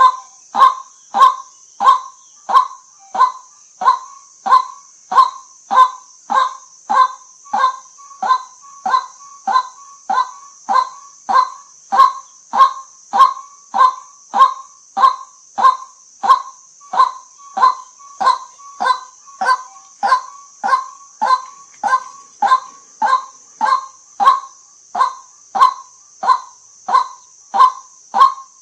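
White-breasted waterhen calling a short, loud 'kwak' note over and over, very evenly, a little under two calls a second. A steady high hiss runs underneath.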